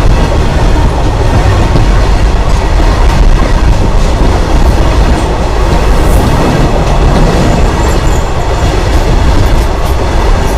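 Freight train wagons rolling over the track with the microphone beneath them: a loud, steady rumble with the clatter of steel wheels on the rails.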